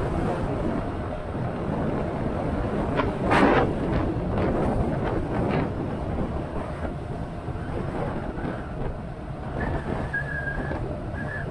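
Motorcycle engine running at road speed under a heavy rush of wind across the microphone, with a louder gust of wind noise about three seconds in.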